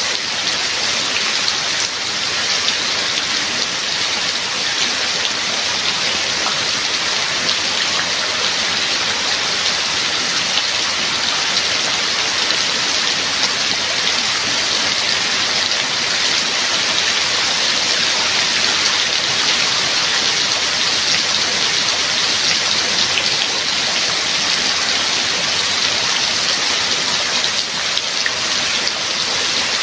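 Steady heavy rain falling, an even hiss of water with fine patter of drops striking surfaces.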